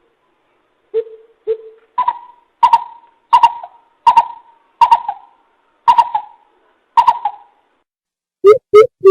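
Greater coucal calling a series of hollow hooting notes. Two soft, lower notes come first, then seven louder, higher ones spaced about two-thirds of a second apart, each trailing off in an echo.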